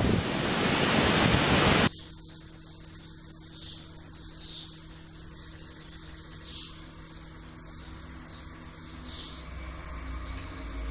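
Small birds chirping over and over in short high calls, after a loud rushing noise that cuts off abruptly about two seconds in.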